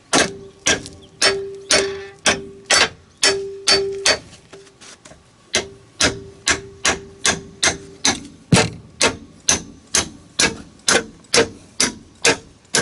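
Hammer blows on metal at a steady pace of about two a second, each leaving a short ringing note; the ringing drops out about two-thirds of the way through, and the blows come a little faster.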